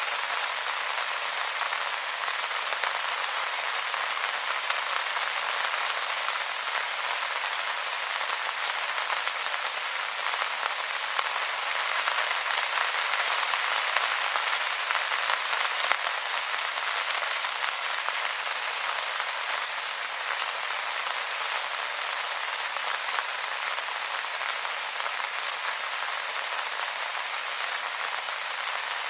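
Steady rain falling on wet leaves, an even patter of many small drops.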